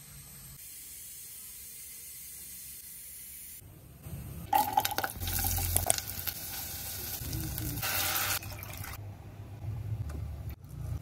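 Sliced onion, garlic and chilli sizzling in a pot on the stove, a loud steady hiss that starts about four and a half seconds in and stops abruptly nearly four seconds later.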